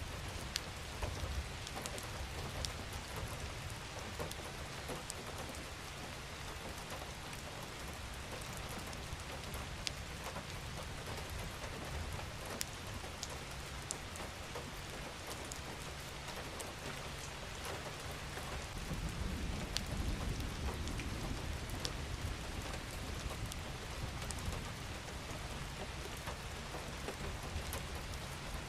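Steady rain falling, an even hiss with scattered sharp drop ticks. A low rumble underneath swells for a few seconds about two-thirds of the way through.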